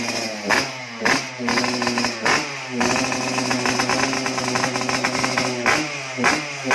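Yamaha RX-King's two-stroke single-cylinder engine through an aftermarket Cobra exhaust, blipped quickly about three times, then idling steadily, with another rev near the end.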